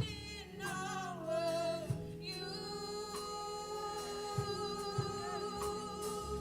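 Gospel worship music: a singer holds long, steady notes over a band, with a few low drum beats.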